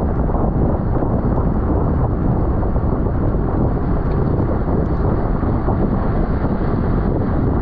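Steady wind noise buffeting the camera's microphone on a bicycle ridden at race speed, a continuous low rumble with a few faint ticks.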